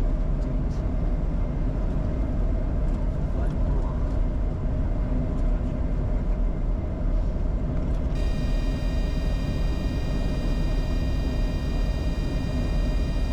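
Steady cockpit noise of a Bombardier Challenger 605 on final approach with the gear down and flaps at 45: a low rush of airflow and engine hum. A thin, high-pitched whine joins about eight seconds in.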